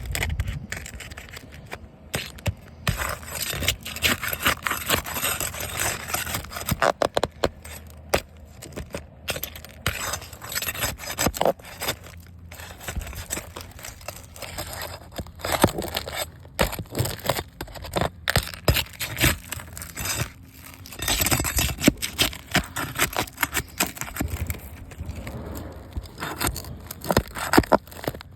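Irregular scraping on a hard surface, broken by frequent sharp clicks and knocks.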